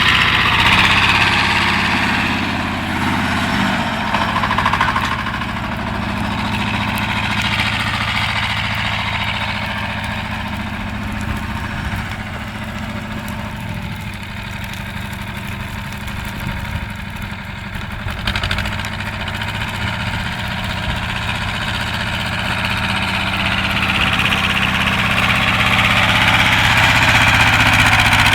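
BJR Falcon 40 articulated tractor's engine running steadily. It is louder near the start and the end and eases off somewhat in the middle.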